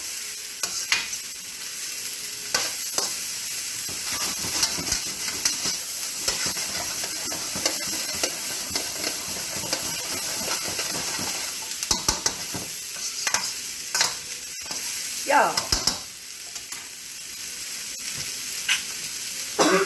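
Beef and vegetables sizzling in a hot wok as they are stir-fried, with a steady frying hiss and the spatula scraping and knocking against the pan now and then.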